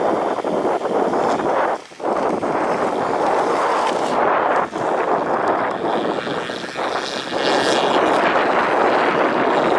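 Strong wind buffeting the microphone, with jet aircraft engine noise underneath that gains a faint high whine in the second half.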